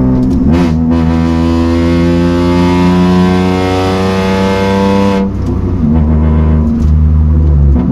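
Toyota Aygo's 1KR-FE three-cylinder engine pulling under acceleration, its pitch climbing slowly for about four seconds, then dropping sharply about five seconds in before picking up again.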